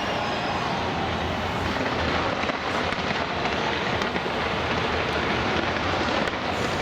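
Fireworks display: a continuous dense crackling hiss without distinct loud bangs.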